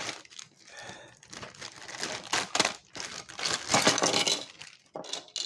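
Toy packaging being opened by hand: crinkling and rustling in irregular bursts, loudest a little past the middle.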